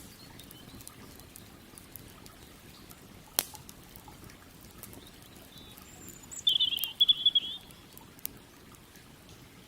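Campfire crackling with scattered sharp pops, one loud pop about a third of the way in, over a steady low hiss of flowing river water. A songbird sings a short warbling phrase a little past the middle.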